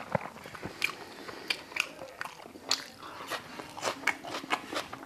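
A person chewing food close to the microphone: irregular crisp crunches and mouth clicks, a few each second.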